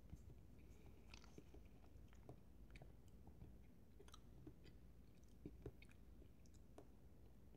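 Faint chewing of a slice of cheese: soft, irregular mouth clicks and smacks, two slightly louder ones about five and a half seconds in.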